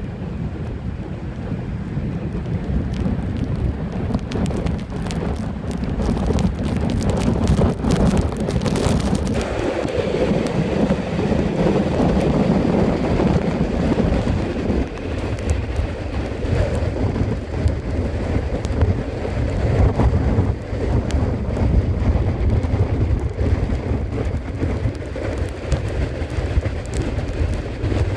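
Windstorm wind buffeting the microphone: a steady heavy rumble, with crackling gusts in the first ten seconds or so.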